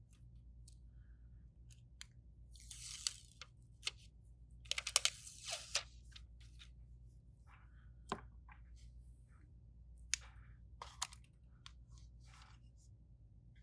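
Scattered light clicks and taps, with two short scraping, crinkling bursts about two and a half and five seconds in, from small repair tools and parts being handled on a phone during a screen repair. A faint low hum runs underneath.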